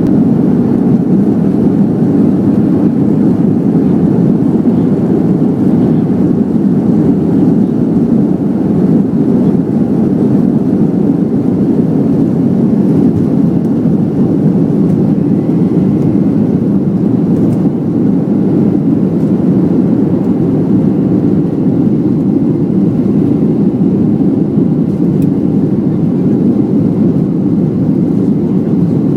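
Boeing 737's jet engines at takeoff power, heard from inside the passenger cabin as a loud, steady low rumble.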